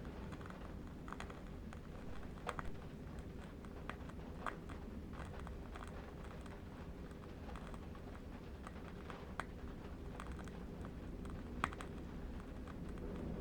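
A steady low wind rumble with sparse, irregular light clicks and crackles scattered through it.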